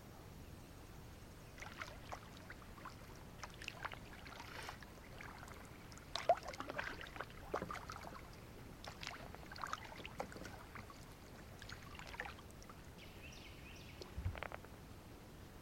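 Kayak paddle strokes in calm water: irregular splashes and drips as the blades dip and lift, with a dull knock near the end.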